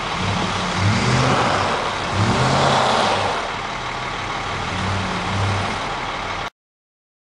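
Road vehicles passing on a wet road: engine noise and tyre hiss that swell and fade, louder about one to three seconds in. The sound cuts off abruptly near the end.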